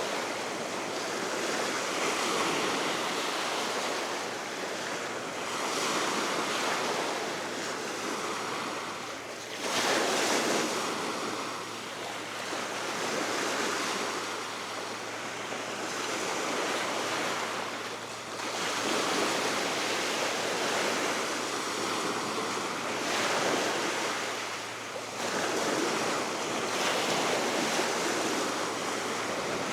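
Baltic Sea waves breaking and washing ashore in steady surges every few seconds, under constant wind, with wind buffeting the microphone.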